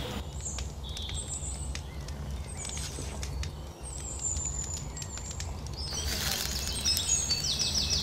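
Small birds chirping and calling over a low steady rumble, with scattered faint clicks. Near the end a quick run of repeated high chirps.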